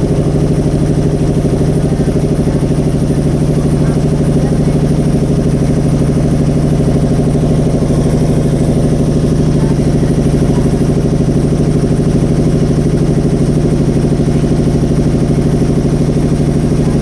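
A boat's engine running steadily at an even speed, with a constant low hum.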